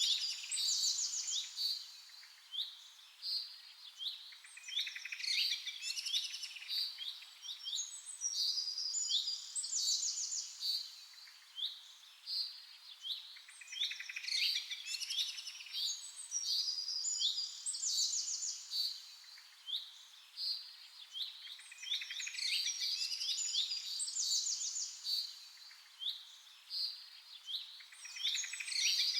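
Songbirds chirping and singing: quick trills and short whistled notes in clusters, a sequence that repeats about every seven to eight seconds.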